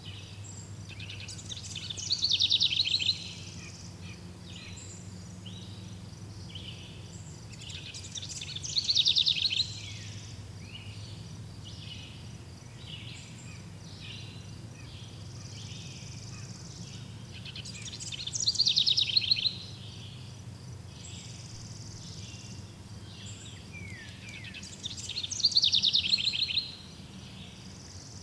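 Forest ambience: a songbird sings a loud phrase falling in pitch four times, about every seven to nine seconds. Shorter chirps from other birds run between the phrases, over a low, steady background noise.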